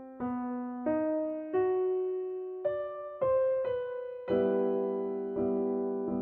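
Slow background piano music: single notes picked out one at a time, each ringing and fading, then from about four seconds in a fuller chord struck repeatedly in an even pulse.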